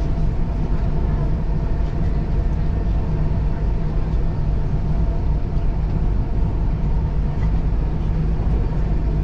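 Dubai Metro train running at speed, heard from inside the car: a steady low rumble of wheels on rail with a faint steady whine above it.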